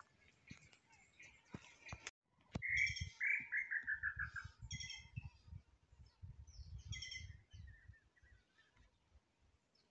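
Wild birds calling in the forest: a quick run of notes stepping down in pitch, then several short chirps. Scattered clicks come in the first two seconds, and low bumps of handling noise on the microphone run under the calls.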